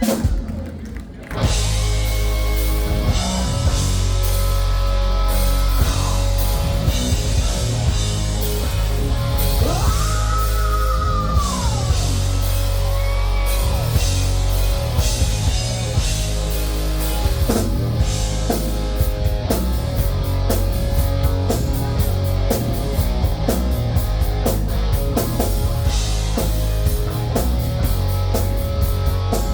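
A hard rock band playing with electric guitar and drum kit. The band drops out briefly about a second in, then plays on, with a long held note gliding up and back down about ten seconds in.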